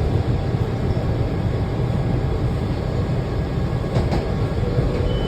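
Washington Metro 7000-series railcar running on the track, a steady low rumble of wheels on rail.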